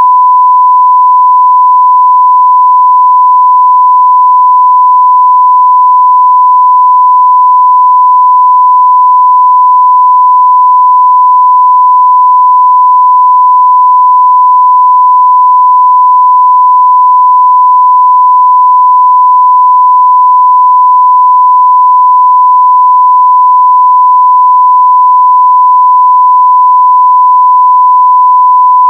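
A pure 1 kHz sine-wave test tone at near full-scale level, held perfectly steady and unbroken.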